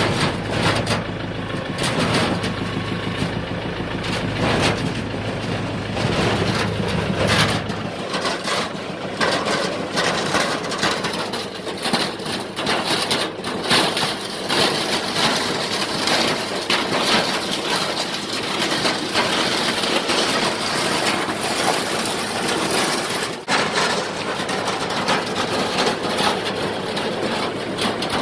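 An engine running with a steady low hum for the first seven or eight seconds, under a continuous clatter of scraping and knocking as a 24-foot sheet-metal-skirted chicken tractor is dragged over the ground. The hum drops away about eight seconds in, leaving the scraping and rattling of the frame and sheet metal.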